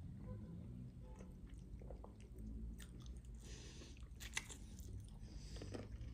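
Chewing a chicken drumstick, with a bite into the meat and a few sharp mouth clicks a little past halfway.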